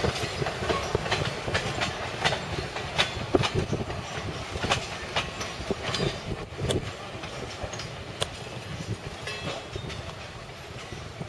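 Tourist train cars, an open passenger flatcar and two cabooses, rolling slowly past, their wheels clicking and knocking irregularly on the rails. The sound fades as the last caboose moves away.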